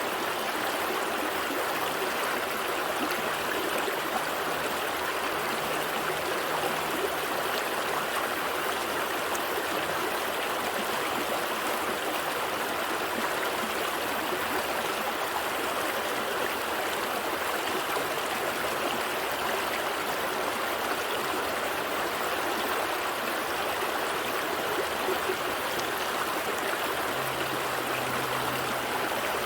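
A small stream flowing steadily over rocks, a continuous babble and trickle of water.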